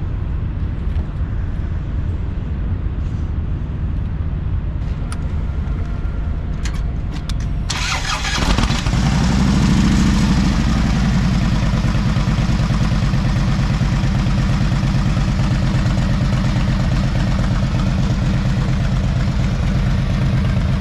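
The MG Midget's small 1275cc four-cylinder engine running. About eight seconds in, the sound gets suddenly louder and adds a rushing noise, and the engine note swells and settles as it revs.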